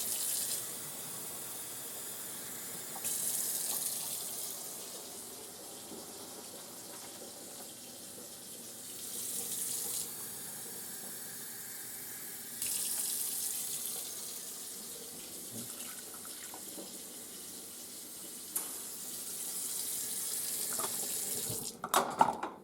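Kitchen tap running steadily as water is added to a pot of macaroni that is running low on water; the flow swells and eases a few times. A few brief clatters near the end.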